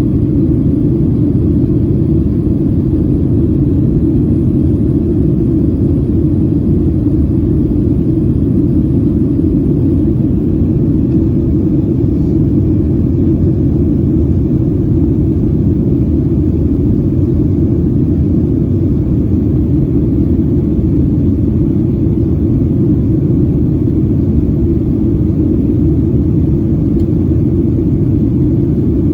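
Steady low rumble of engine and airflow noise heard inside the cabin of a Boeing 737 airliner, unchanging throughout.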